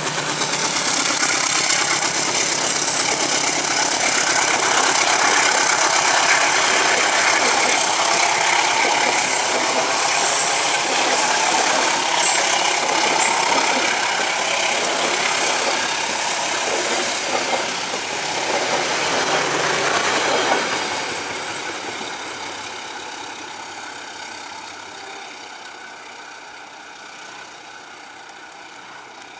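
GE-built CC 201 diesel-electric locomotive passing close by with its engine running, followed by a string of passenger coaches rolling past with steady wheel-on-rail noise. About twenty seconds in the sound drops and then fades away steadily as the train recedes.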